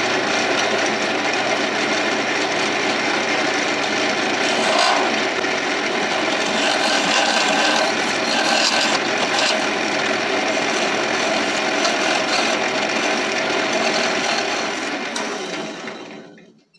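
Carbide round-nose scraper cutting the inside bottom of a mulberry hollow-form vase spinning on a wood lathe: a steady scraping that tails off near the end.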